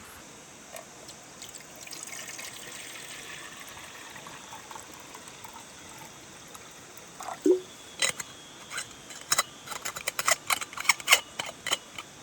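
Steady rain hiss, broken over the last four seconds by a run of sharp clicks and knocks.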